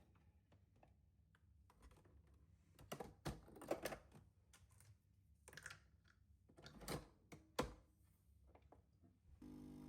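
Scattered light clicks and knocks from small objects being handled, bunched around three to four seconds in and again around six to eight seconds in. A steady hum starts just before the end.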